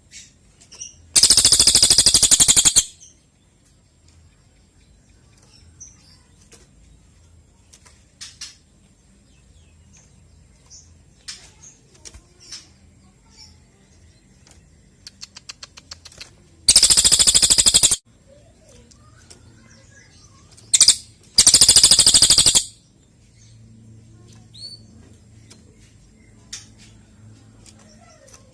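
Cililin bird singing: four loud, rapid, high-pitched trilling bursts of one to one and a half seconds each, two of them close together near the end, with faint short chirps and ticks in the gaps.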